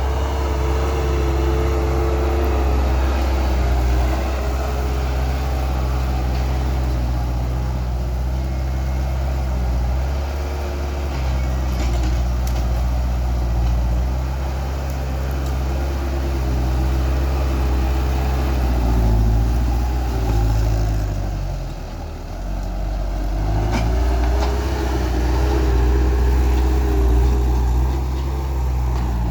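Skid steer loader's diesel engine running steadily. About twenty seconds in, its speed sags and the level dips briefly before it picks back up.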